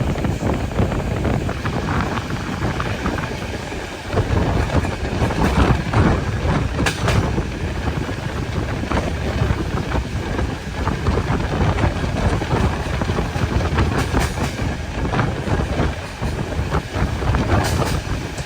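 A moving train: a steady rumble of wheels on the rails with scattered clacks, and wind buffeting the microphone.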